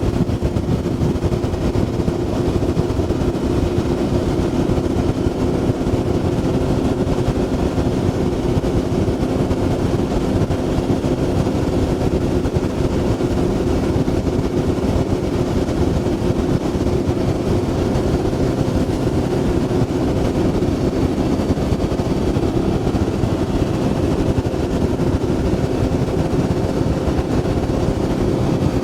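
Motorboat engine running at a steady speed while under way, a constant hum over rushing wind and water noise.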